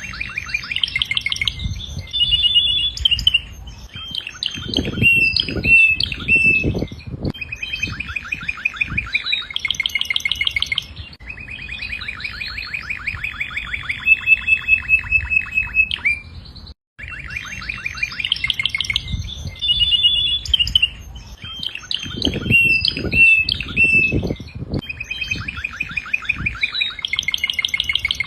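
Domestic canary singing a long song of fast trills and rolling runs of rapidly repeated notes, broken by a brief dropout about two-thirds of the way through. Low thuds sound twice under the song, about 5 seconds in and again near 22 seconds.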